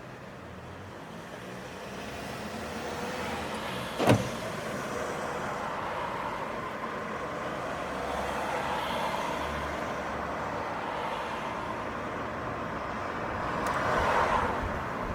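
City street traffic: a steady wash of cars passing, growing louder over the first few seconds, with one sharp knock about four seconds in and a car passing close near the end.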